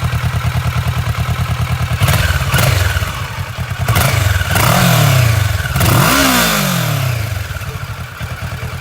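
Kawasaki Versys 650 parallel-twin engine through its stock exhaust, idling steadily, then revved in a few quick throttle blips from about two seconds in, each rising and falling in pitch, before settling back to idle.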